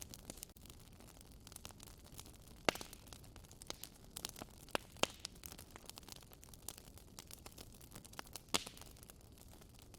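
Wood fire crackling in a fireplace: irregular sharp pops and snaps over a soft hiss, with a few louder pops about three, five and eight and a half seconds in.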